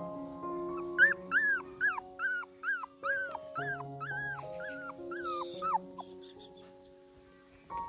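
A puppy whimpering and yelping: about ten short, high, falling cries, roughly two a second, starting about a second in and stopping near the six-second mark. Soft background music plays throughout.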